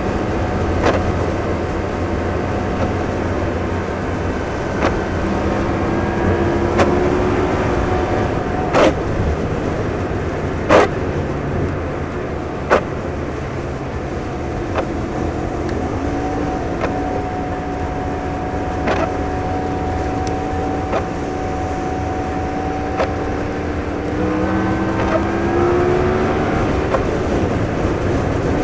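Rear-wheel-drive pickup truck heard from inside the cab: steady engine and road noise, with the engine note rising a few times as it accelerates. A short sharp click comes about every two seconds.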